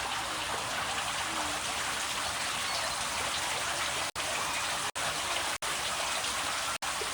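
Steady rushing, splashing noise of water, broken by a few very brief dropouts to silence in the second half.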